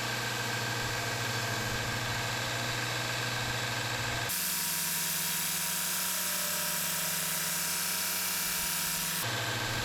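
A power tool motor running steadily; its sound changes abruptly about four seconds in and switches back near the end.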